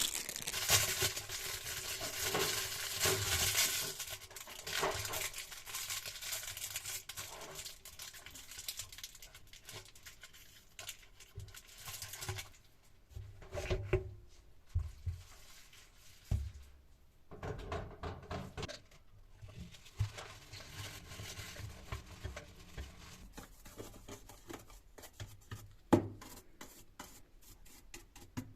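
Paper or plastic packaging rustling and tearing for the first few seconds, then scattered clicks, taps and a few knocks as objects are handled, with one sharp knock near the end.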